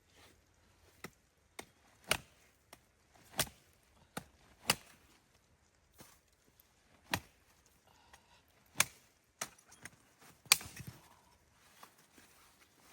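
Wood being chopped: a series of sharp strikes at irregular intervals, some much louder than others, the heaviest two near the end.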